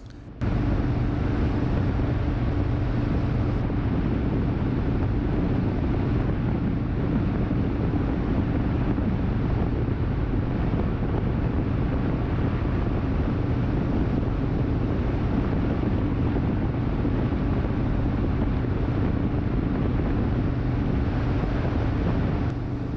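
Harley-Davidson Road King's V-twin engine humming steadily at highway speed, buried under heavy wind rush on the microphone and road noise. It cuts in suddenly just after the start.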